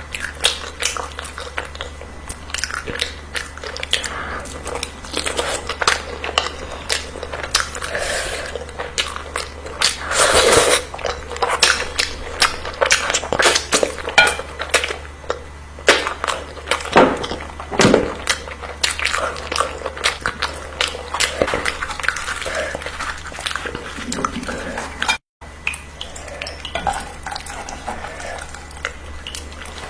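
A person eating: chewing and biting, with frequent clicks and clinks of cutlery against dishes. The sound cuts out completely for a moment near the end.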